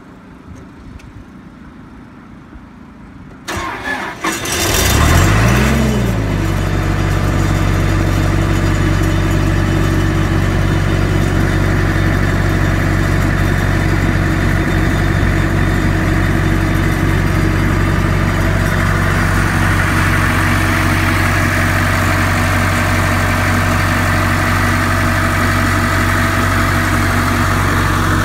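Sullivan D185Q4 towable air compressor's diesel engine cold-starting: about three and a half seconds in it cranks briefly, catches, rises in speed, then settles into a steady idle.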